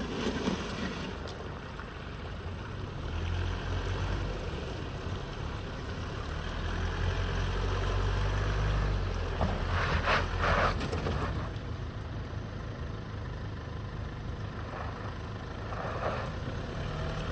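Four-wheel-drive vehicle driving along a wet off-road track, its engine a steady low rumble that swells in the first half. About ten seconds in comes a louder rushing burst of noise, and a smaller one follows near the end.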